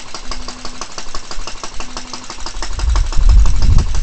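A 1.5 hp Clinton 702 small engine on a walk-behind tractor running steadily after a cold start, its firing heard as rapid, even pops. About three seconds in, a low rumble swells up under it and becomes the loudest sound.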